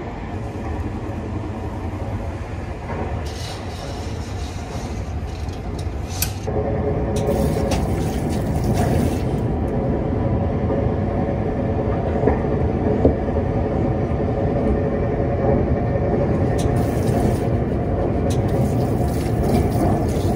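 Steady rumble of the Spacia X limited express train running, heard inside the carriage. About six seconds in it gets louder and fuller, with a few faint clicks.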